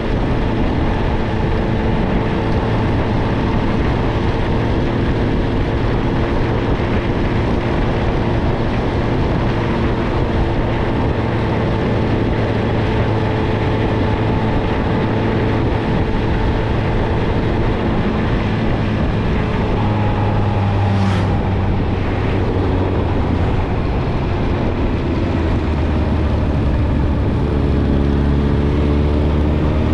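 Suzuki GSX-R1000 inline-four running through a Yoshimura Alpha exhaust at steady cruising revs, over a steady rush of wind. About two-thirds through the note changes and briefly drops, and near the end the revs climb as the bike accelerates.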